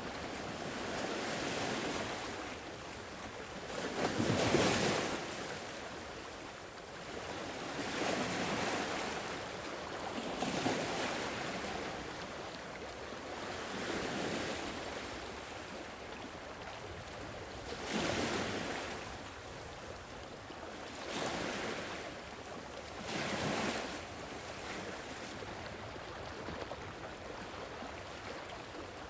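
Sea waves washing onto a shore, surging and receding every few seconds, with a soft wind hiss underneath. The strongest surges come about four and a half seconds in, around eighteen seconds and around twenty-three seconds.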